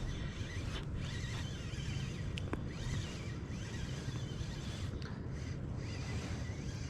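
Steady low rush of water pouring over a river spillway, with faint wavering high chirps above it and a single sharp click about two and a half seconds in.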